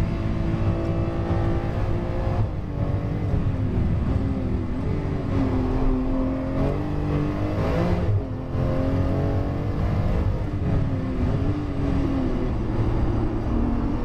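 Porsche 911 GT2 RS MR's twin-turbo flat-six heard on board at racing speed, its pitch falling and rising as the car brakes and accelerates through corners, with a downshift from fourth to third gear.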